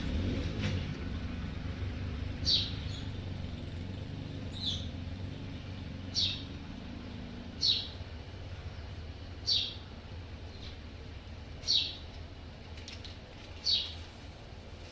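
A bird calling over and over, a short falling chirp every couple of seconds, over a steady low background rumble.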